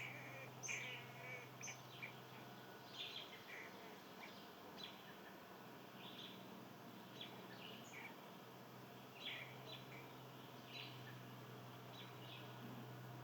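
Small birds giving short, scattered chirps and calls, about a dozen over the stretch, faint, over a steady low hum.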